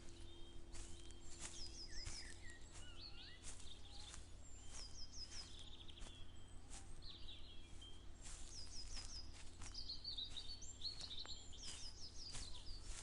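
Several songbirds singing, repeatedly giving short runs of three or four high, falling notes among varied chirps, over a steady low outdoor rumble. Soft footsteps of someone walking tick along at about two a second.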